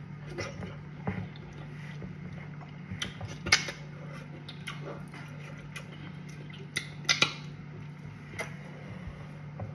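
Eating sounds from a meal of cassava fufu and soup: scattered sharp clicks and clinks of a dish and of chewing, the loudest about halfway through and again near 7 seconds, over a steady low hum.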